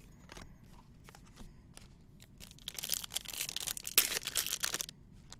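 Light clicks of trading cards being handled, then about two seconds of crinkling and tearing as a foil card-pack wrapper is ripped open, with one sharp snap near the middle of it.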